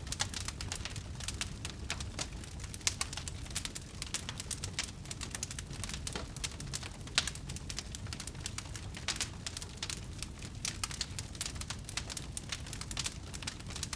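Wood fire burning in a fireplace, crackling with many small irregular pops over a low steady rumble. One sharper pop comes about seven seconds in.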